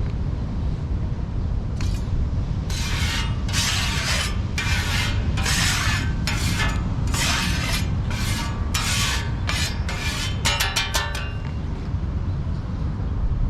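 Wind buffeting the microphone with a steady low rumble. Over it comes a run of about a dozen rasping, scraping strokes, each under a second. Near the end they give way to a quick burst of sharp clicks.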